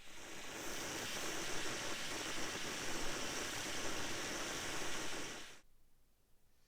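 A steady hiss of air under pressure starts abruptly and cuts off after about five and a half seconds.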